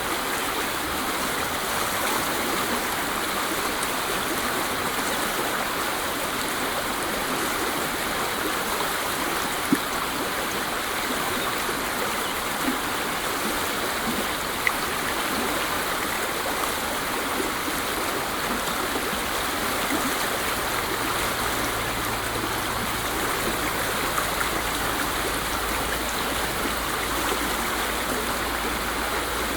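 A waterfall: steady rushing water, with a few brief splashes standing out. A low rumble joins about two-thirds of the way through.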